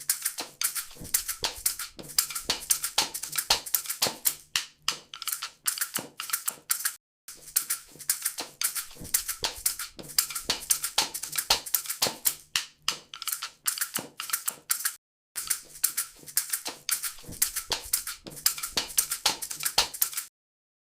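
Rapid, uneven clicking and tapping that runs in three stretches with short breaks between, over a faint low hum, then stops abruptly near the end.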